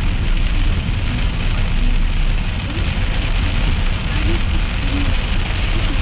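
Heavy rain drumming steadily on a moving car's roof and windscreen, heard from inside the cabin over the low rumble of the car on the road.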